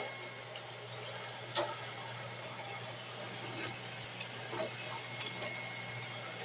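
Roomba robot vacuum running: a steady whirring hiss with a constant hum, and a few light clicks along the way.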